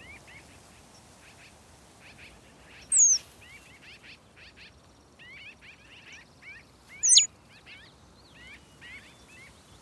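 Birds calling: a chorus of short, quick chirps, with a loud high whistled call about three seconds in and another about seven seconds in.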